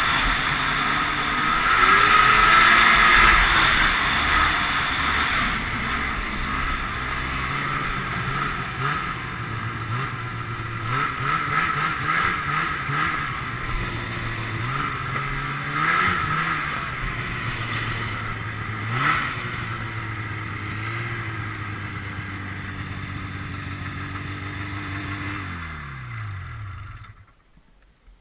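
Ski-Doo Blizzard 5500 snowmobile's fan-cooled Rotax twin two-stroke engine running and revving up and down as the sled rides. Near the end the engine note falls and the sound dies away.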